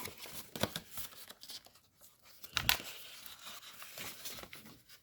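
A sheet of origami paper being handled and pressed into shape, with intermittent crinkles and rustles, the crispest about two and a half seconds in.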